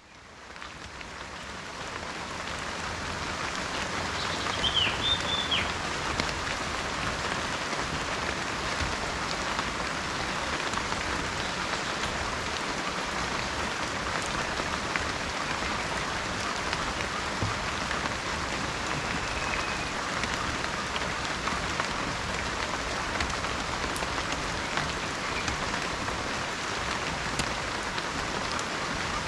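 Heavy rain falling steadily, fading in over the first few seconds. A brief high chirp comes about five seconds in.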